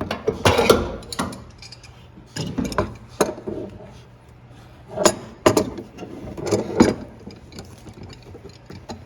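Metal washing-machine parts and hand tools clinking, rattling and knocking in four short bunches of clicks, with quiet gaps between them.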